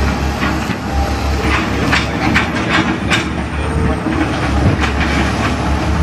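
Heavy demolition machine's diesel engine running steadily, with a string of sharp clanks and knocks from about a second and a half to three seconds in, as the machine works on the building.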